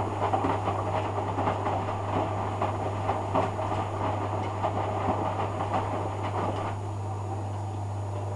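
Hoover Dynamic front-loading washing machine on a rinse, its drum turning the wash in water: an uneven churning with small knocks over a steady low hum. About seven seconds in the drum stops and only the hum is left.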